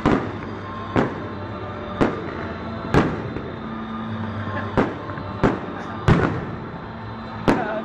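Fireworks going off in a string of sharp bangs, about eight of them, roughly one a second, over a steady background din.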